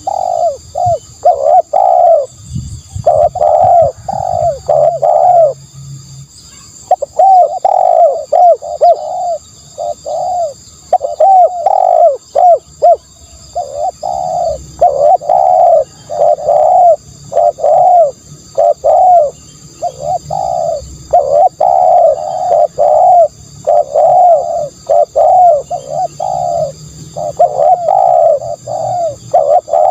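Spotted doves cooing over and over, in runs of several coos separated by short pauses.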